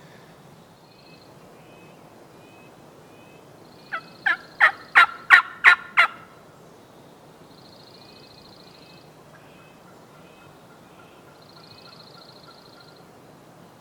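A run of about eight turkey yelps, evenly spaced and building in loudness, about four seconds in. Faint high songbird trills repeat every few seconds before and after.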